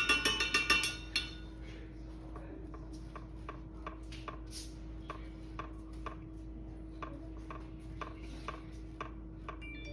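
A paintbrush clinks and rattles against a glass or ceramic water cup for about a second. Light, irregular tapping follows, two or three taps a second.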